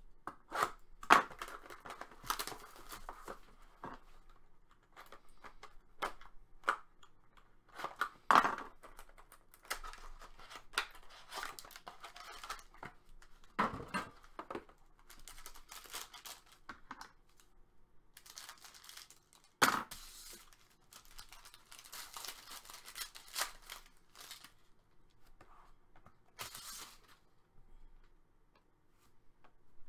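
Hockey card pack wrappers being torn open and crinkled, in irregular sharp rips and rustles.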